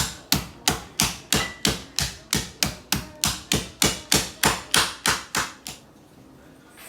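Pistachios being smashed with a steady run of about nineteen sharp blows, roughly three a second, which stop near the end.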